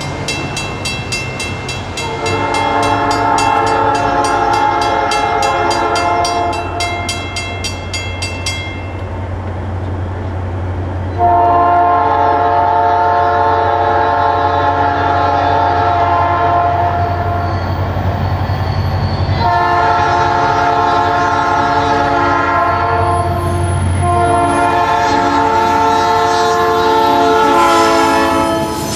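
Diesel locomotive horn sounding four chords, long, long, short, long: the grade-crossing warning signal. A bell rings rapidly for the first eight seconds or so, and a steady low engine rumble runs underneath.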